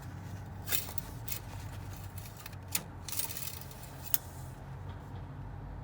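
Engine oil dipstick being pushed into and pulled back out of its metal tube to check the level after a refill: a few light metallic clicks and a short scrape over a steady low hum.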